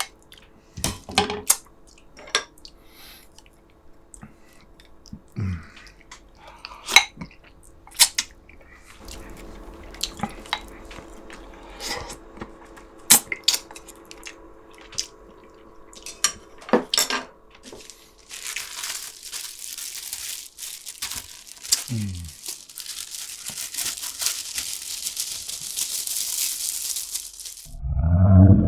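Eating at a table: scattered clinks of cutlery against dishes, with chewing. About eighteen seconds in, a steady hiss starts and runs for about nine seconds.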